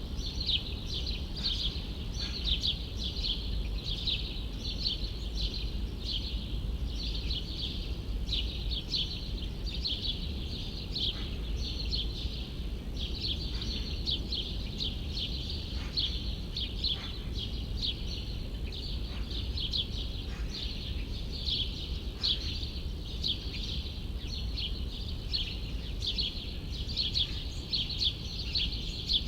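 Small birds chirping without pause, a dense high twittering of quick notes several times a second, over a steady low background rumble of the city.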